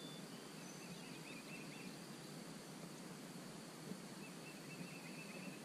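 Faint outdoor ambience by still water: a distant songbird twitters in two short phrases over a steady background hiss and a thin high steady whine, with a faint tick near the middle.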